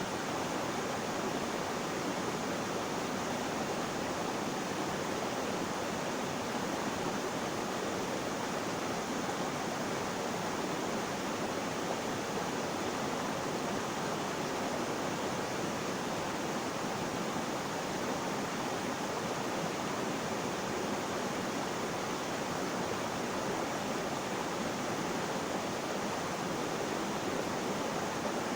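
Flowing water rushing steadily and evenly, with no change.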